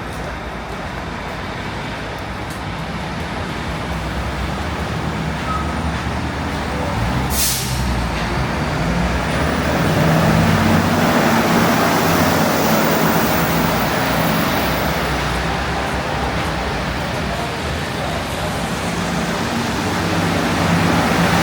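City street traffic with a heavy vehicle's engine running and a short air-brake hiss about seven seconds in. The traffic noise swells around the middle.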